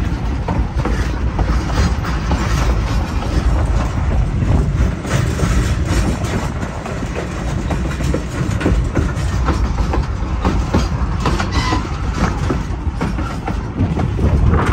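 Narrow-gauge passenger cars rolling along the track, heard from aboard: a steady rumble with the wheels clattering irregularly over the rail joints.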